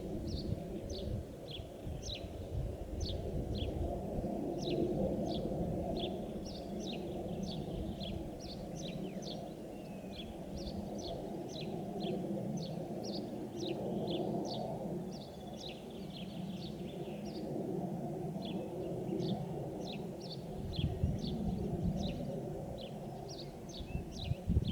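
Small birds chirping: many short, high chirps in quick succession throughout, over a steady low rumble. Low gusty bumps come near the start and again from about 21 seconds in.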